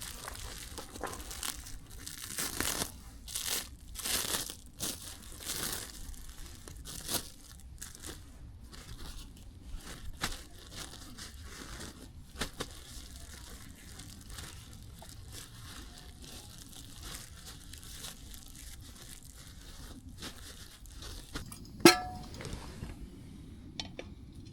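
Rustling and crinkling handling noises in irregular bursts over the first several seconds, then quieter, with one loud sharp clink about 22 seconds in.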